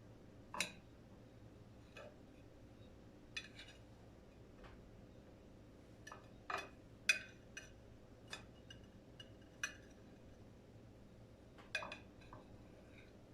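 Dishes and cutlery being handled, giving a dozen or so short, scattered clinks and knocks. The sharpest are about half a second in and about seven seconds in.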